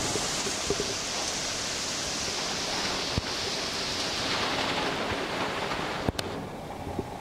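Heavy rain hissing steadily in a thunderstorm downpour, with a few scattered sharp taps. The hiss thins out a little after five seconds, and a sharp click comes at about six seconds.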